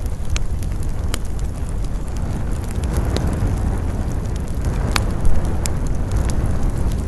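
Campfire burning with frequent sharp crackles and pops of the wood, over a steady low rumble of wind.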